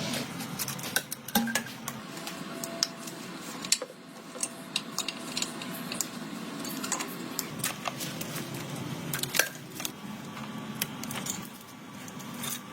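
Irregular light metallic clinks and taps, small metal parts and tools knocking against each other as they are handled, over a steady low background hum.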